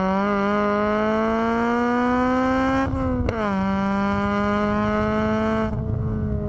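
Honda Civic EG6's B16A VTEC four-cylinder engine accelerating hard, its pitch climbing steadily through a gear. About three seconds in it breaks and drops with a gear change, then pulls again at a roughly steady pitch, and the sound thins out near the end as the throttle lifts.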